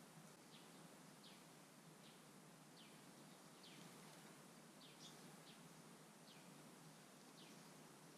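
A bird chirping faintly: a string of short, high, falling notes, repeated roughly once a second over a steady low hiss.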